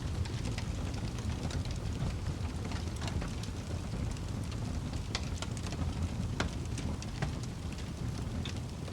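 Wood fire burning in a fireplace: a low steady rumble of the flames with irregular sharp crackles and pops of the burning logs.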